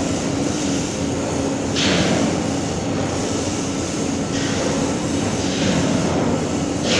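Steady machine noise with a constant hum and a hiss that swells about every two and a half seconds.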